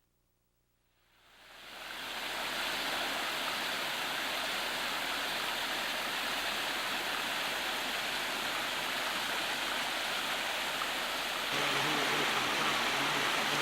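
Waterfall or mountain creek rushing: a steady, even wash of falling water that fades in about a second in and grows a little louder near the end.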